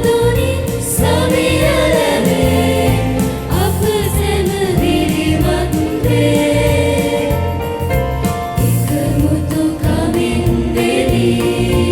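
Church choir singing a Sinhala hymn over instrumental backing with a steady bass beat.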